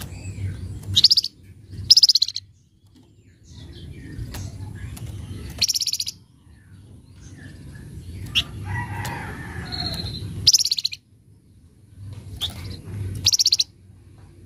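Flamboyan songbird giving harsh, rapid chattering rattles ('crewet', 'nyecret'), five short bursts with brief high chirps between them, over a low rumbling background noise.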